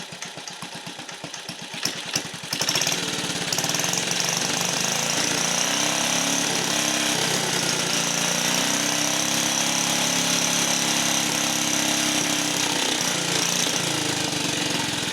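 1950 REO engine running just after a first-pull start: rapid, even firing at first, then about two and a half seconds in it speeds up and runs louder and steady, easing off slightly near the end.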